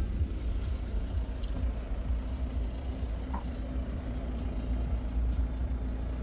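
Audi A4 40 TDI's four-cylinder diesel engine idling: a low, steady rumble with a faint even hum.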